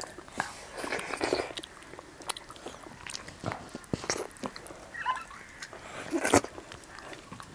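Close mouth sounds of eating rice and nettle curry by hand: wet chewing, lip smacks and scattered small clicks. The loudest smack, about six seconds in, comes as fingers are sucked clean.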